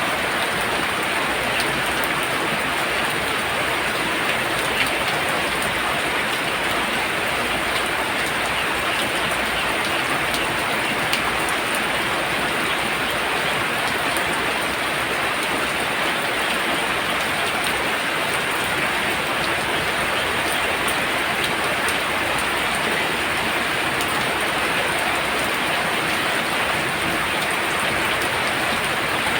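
Heavy rain pouring steadily, a dense even hiss of falling water, with a couple of sharper ticks about five and eleven seconds in.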